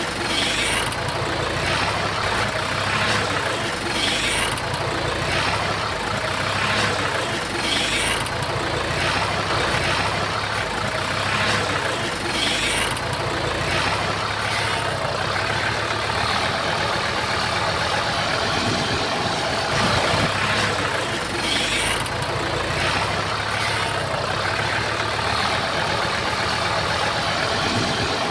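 Komatsu bulldozer's diesel engine running steadily, with short high-pitched rasps every few seconds.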